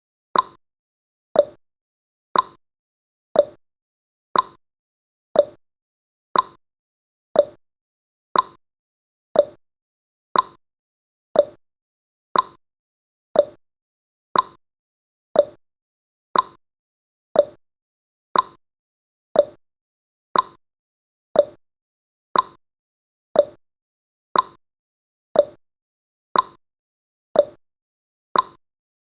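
Countdown timer's ticking sound effect: a short, sharp click once every second, alternating higher and lower in pitch like a clock's tick-tock.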